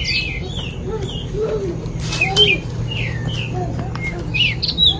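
Several birds chirping, with quick high gliding notes repeating throughout and lower short calls now and then.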